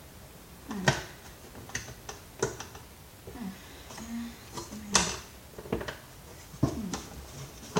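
Sharp clicks and knocks of hard plastic as the housing of a Dirt Devil upright vacuum cleaner is handled and pried at during its teardown, several separate clicks about a second apart, the loudest about five seconds in.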